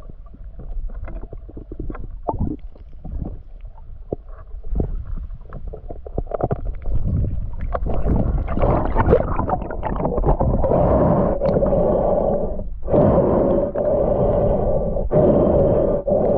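Muffled water noise from a camera held underwater: scattered clicks and knocks at first, then from about seven seconds in a dense, steady rush of water with a hum, broken twice by short dropouts.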